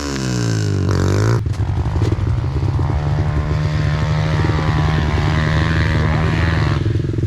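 Pit bike engine winding down in pitch, blipped briefly about a second in, then running steadily at low revs.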